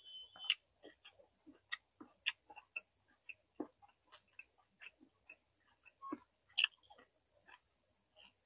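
Close-miked chewing of roasted vegetables: irregular soft wet clicks and mouth smacks, a few each second, with a louder click about six and a half seconds in.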